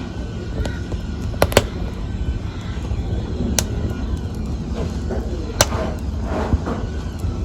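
Wood fire in a fireplace crackling, with a steady low rumble of flames and several sharp pops and snaps from the burning logs.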